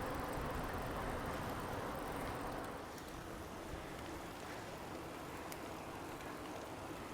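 Steady rolling noise of a bicycle ride, tyres on the trail mixed with wind on the microphone, easing a little about three seconds in.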